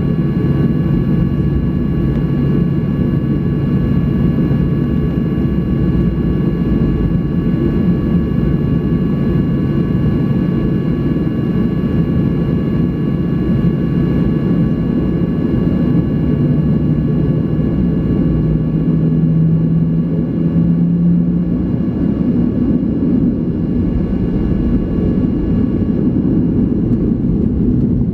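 Boeing 737-800's CFM56 jet engines running, heard as a steady loud rumble inside the passenger cabin. A low hum and faint steady whines run through it, and the hum rises slightly in pitch a little past halfway.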